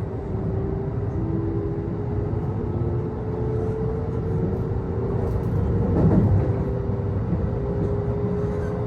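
Kintetsu Osaka Line local electric train heard from inside the car while running: a steady rumble of wheels on rail with a motor whine that edges slowly up in pitch, and a brief louder rattle about six seconds in.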